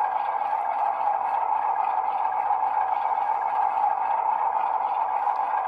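ESU LokSound decoder in an HO scale Rapido Dash 8-40CM playing its GE diesel prime mover sound at a low throttle setting through the model's small speaker, a steady running sound with no change in pitch.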